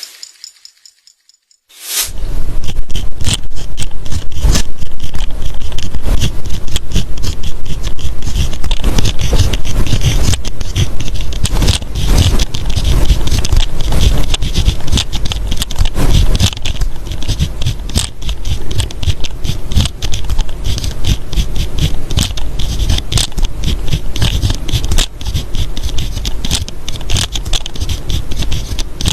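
Writing on paper, close up: dense, irregular scratching strokes of the tip against the page, with low thumps of the hand and paper on the desk. It starts about two seconds in.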